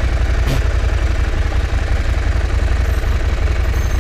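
KTM 790 Adventure's parallel-twin engine running steadily at low revs, with one short click about half a second in.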